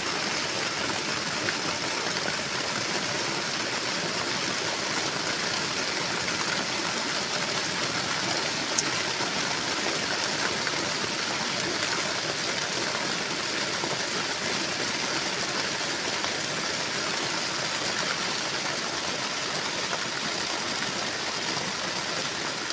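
Heavy rain falling steadily, a constant even hiss with no letup.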